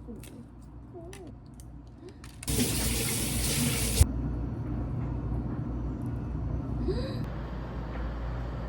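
Water running for about a second and a half, then cut off with a knock, followed by a steady low hum.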